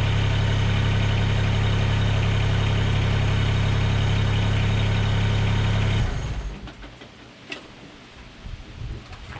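Mahindra eMax 20S HST tractor's diesel engine idling steadily, then shut off about six seconds in and running down within a second. A few light clicks and knocks follow in the quiet.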